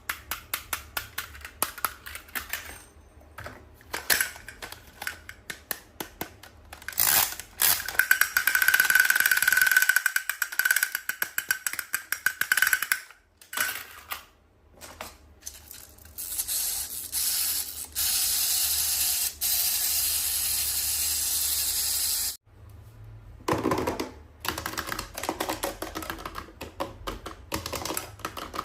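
Hands handling toy packaging: rapid clicks and taps on plastic, a few seconds of dense crinkling about a third of the way in, then a steady hiss of about four seconds before the tapping resumes.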